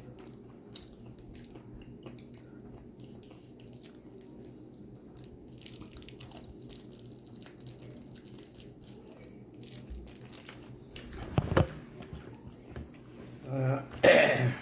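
A person chewing a Carolina Reaper pepper, with small wet crunching clicks of the mouth over a steady low hum. Near the end come a few loud vocal sounds.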